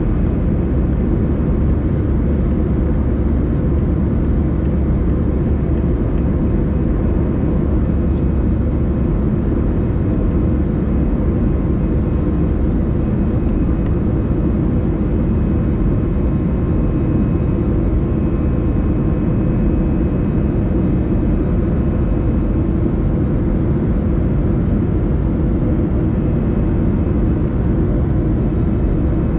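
Cabin noise of an Airbus A321 in flight shortly after takeoff: a steady rush of airflow and engine drone, with faint steady hum tones. The deep rumble eases slightly about nine seconds in.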